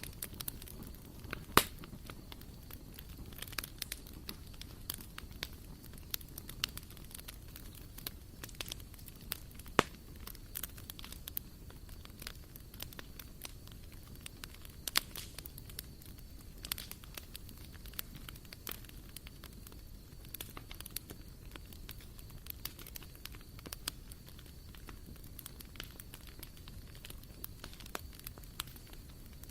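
Wood fire burning in a BBQ grill, crackling with irregular sharp pops and a few louder snaps over a low steady rumble.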